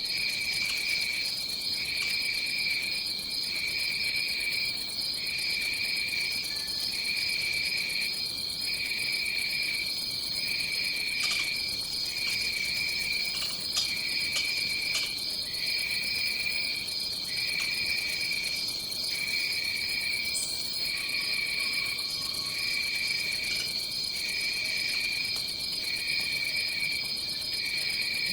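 Tropical rainforest insect chorus: a steady high, shrill trill, with a lower trill pulsing on and off about once a second.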